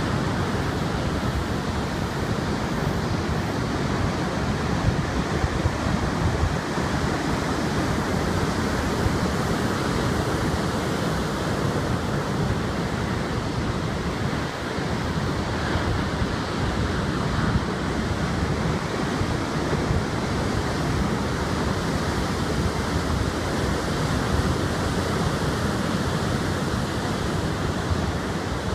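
Heavy typhoon surf breaking continuously, with strong wind rumbling on the microphone.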